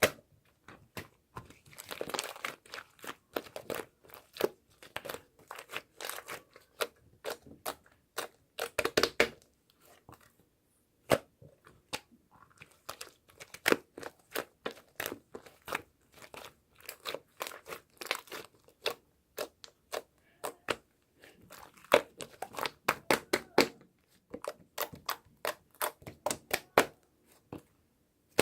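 Crinkling and crunching handling noises, irregular sharp clicks and rustles coming in bursts, with short lulls about ten and twenty seconds in.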